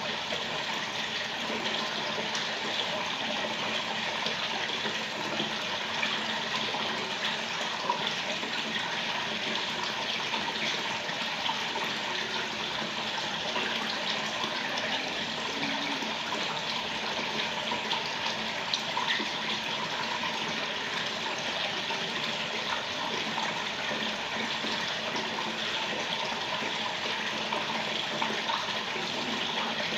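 Steady rushing noise of running water, even in level, with faint scattered ticks throughout.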